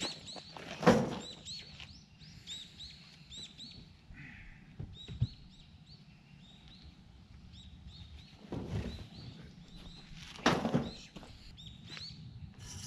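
Small birds chirping over and over in short, quick notes. A few loud clunks break in, about a second in and twice more later on.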